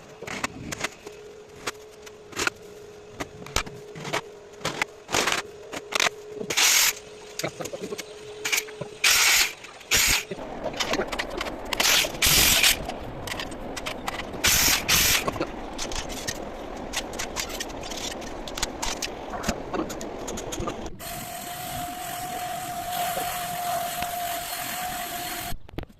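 Woodworking on a wooden bird cage: many sharp knocks and taps, with a steady hum under them for the first several seconds and a few hissing strokes of about a second each. Near the end this gives way to a steady hiss with a held tone for about four seconds, then stops abruptly.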